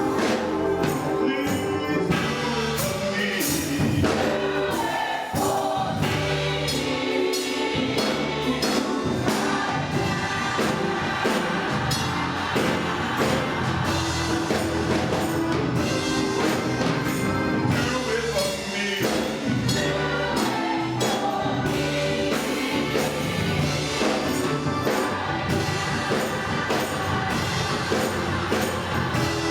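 A gospel choir singing with a live band: steady drums and percussion keeping the beat under the voices.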